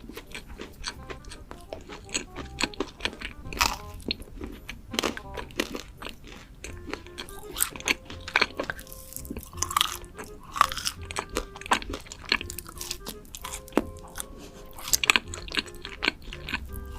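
Close-miked crunching and chewing of crisp food, many sharp crunches in quick succession, over soft background music.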